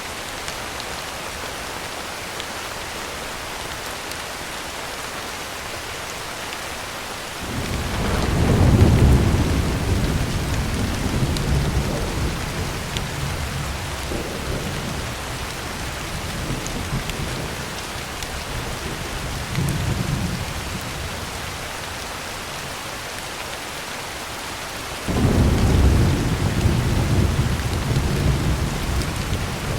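Heavy rain on a tin roof, a steady hiss, with two long rolls of thunder. The first rumble starts about a quarter of the way in, peaks within a couple of seconds and slowly dies away. The second breaks in suddenly near the end and is still rolling when the clip ends.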